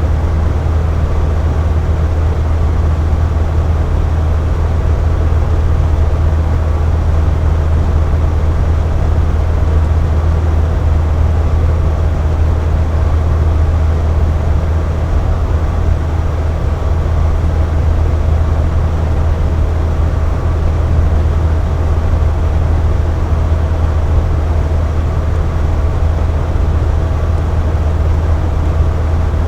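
Box fan running steadily: an even rushing hum of moving air, low and constant, with a faint steady whine from the motor.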